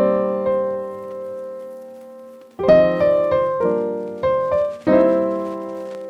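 Background piano music: a chord rings and fades, then after a pause of a couple of seconds new chords are struck every second or so.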